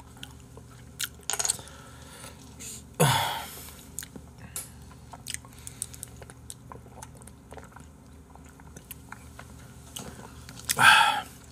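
Chewing and mouth noises while eating, with many small clicks scattered throughout. A louder short sound with a falling pitch comes about three seconds in, and another loud burst near the end.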